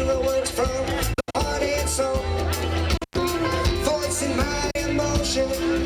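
Live roots reggae band playing an instrumental passage, with a steady bass line under guitar and keyboard parts. The sound cuts out for an instant twice, about a second in and about three seconds in.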